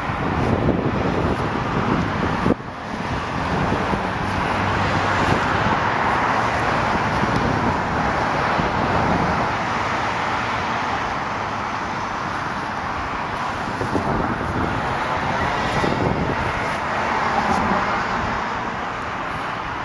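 Steady hiss of road traffic, swelling and easing a little as vehicles pass, with a brief dip about two and a half seconds in.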